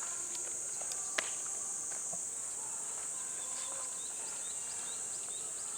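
Steady high-pitched insect chorus, with a single sharp click about a second in and faint short chirps later on.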